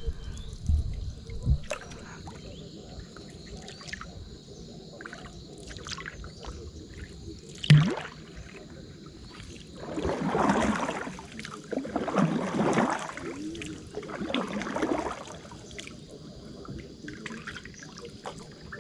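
Water trickling and dripping around a small boat, with three splashing, sloshing swells about ten, twelve and fourteen seconds in and a single sharp knock a little before that.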